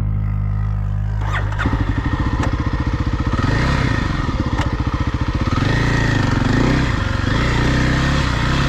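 Small off-road vehicle engine running. About a second and a half in it changes from a steady idle to fast, throbbing revs that rise and fall, with a few sharp clicks.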